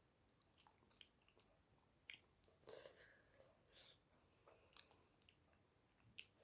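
Faint, close-up chewing: soft mouth smacks and a few scattered small clicks of someone eating a mouthful of food.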